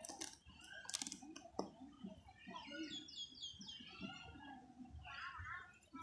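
Faint bird chirping, with a quick run of repeated high chirps around the middle and another short burst near the end, and a few sharp clicks in the first second and a half.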